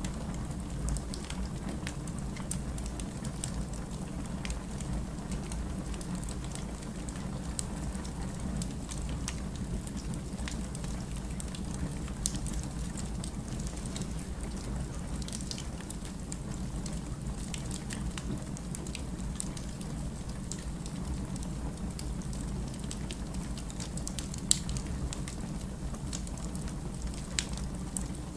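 Wood fire burning in a fireplace: a steady low rumble of flames with constant small crackles and a few louder pops, one about halfway through and a couple near the end.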